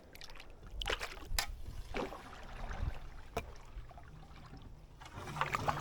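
Kayak paddling in creek water: paddle strokes dipping and splashing, with several separate sharp knocks.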